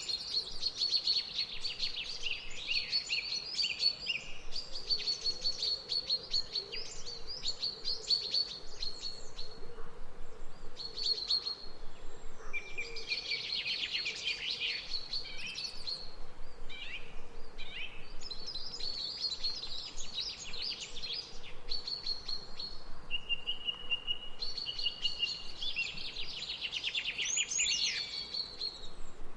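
Birds singing: bursts of rapid, high chirping and trilling phrases that overlap and come and go with short pauses, over a faint steady background hiss.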